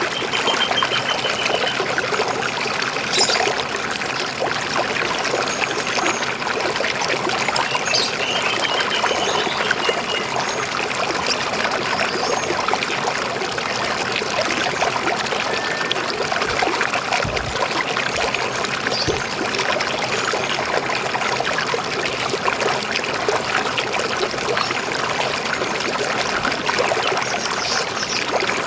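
River water flowing and trickling steadily over stones, with a few faint bird chirps and short trills now and then.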